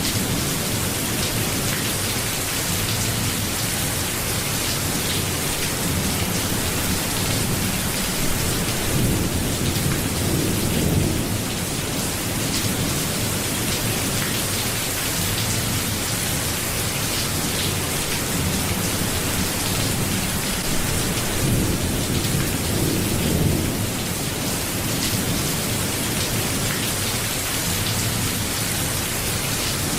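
Steady rain, with low rumbles of thunder swelling up twice, about a third of the way in and again about three-quarters through.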